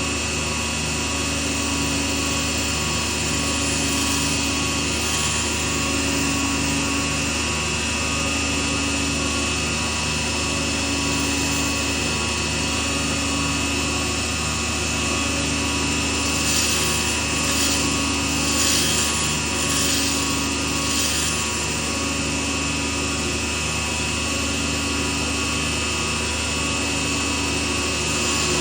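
Small lathe running steadily with a regular pulsing hum, while a tool works the spinning pen blank in short scraping bursts about four seconds in and again a few times in the second half.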